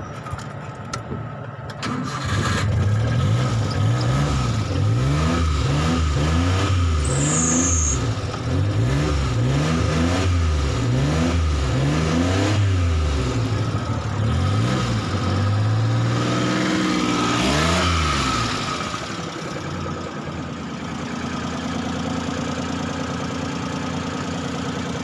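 Small three-cylinder vehicle engine catching about two seconds in, then revved up and down in quick succession, about one rev a second, before settling to a steady idle near the end. The engine is old and already somewhat smoky.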